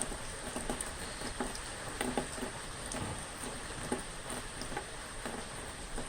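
Steady rain with many irregular drops tapping on a surface.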